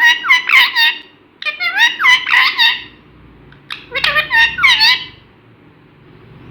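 Pet parrot talking: three bursts of high-pitched, speech-like chatter with sliding pitch, the last ending about five seconds in.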